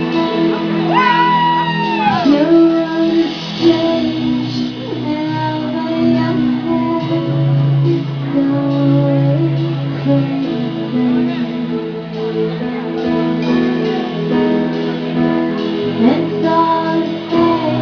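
Live band music: a song played at full volume, with guitar and sustained, gliding melodic lines.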